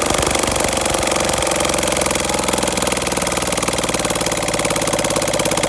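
Diesel engine running at idle with a rapid, even knock of firing pulses, settling into a steadier rhythm about a second and a half in.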